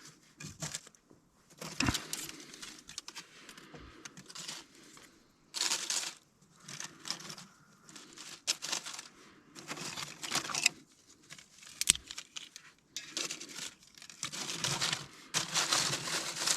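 Dry twigs, kindling and tinder being handled and laid by hand, rustling and crackling in irregular bursts, with a couple of sharp clicks.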